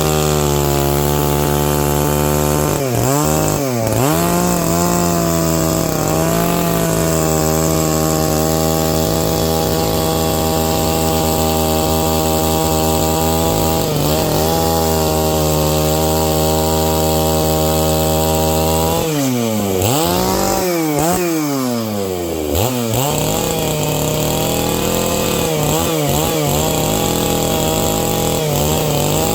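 Stihl MS 660 two-stroke chainsaw running at high revs while ripping a pine log lengthwise along the grain. Its engine pitch holds steady under load, dips briefly a few times, then drops and climbs repeatedly about two-thirds of the way through before settling back to a steady pitch.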